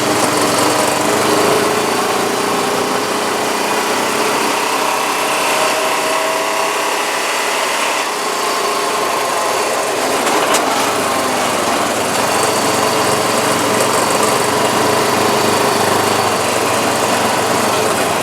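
Four-wheeler (ATV) engine running steadily while riding, its pitch wavering a little under a dense rush of noise, with one short click about halfway through.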